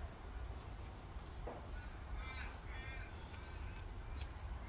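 Crow cawing faintly, a few short calls about two seconds in, over a low steady hum, with a couple of light clicks near the end.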